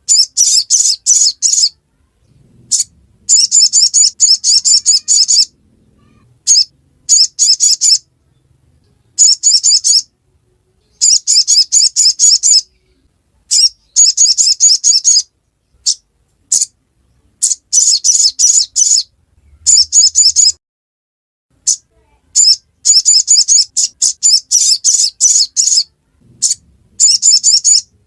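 Little spiderhunter (sogok ontong) giving its rapid, high-pitched 'ngriwik' chatter, in bursts of a second or two separated by short pauses.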